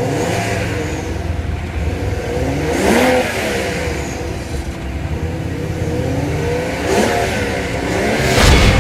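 A car driving past three times, its engine and tyre noise swelling and dropping in pitch as each pass goes by, about three seconds in, about seven seconds in, and at the end.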